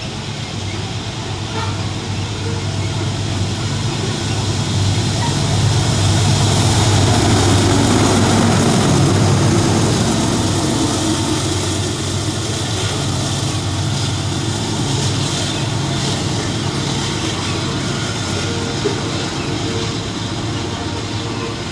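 Freight train passing: diesel locomotive engine drone that grows to its loudest about eight seconds in, then eases into the steady rumble and clatter of the wagons rolling by.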